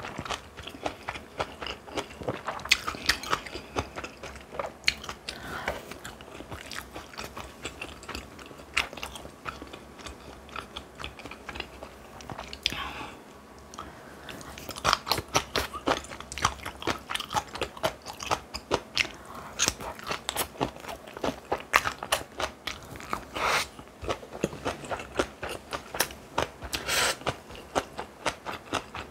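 A person chewing and crunching food close to the microphone, with many irregular wet smacks and crunchy bites.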